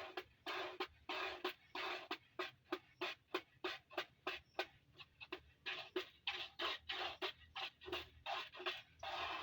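Cow being milked by hand: rhythmic squirts of milk hissing into the container, about two to three jets a second, stopping near the end.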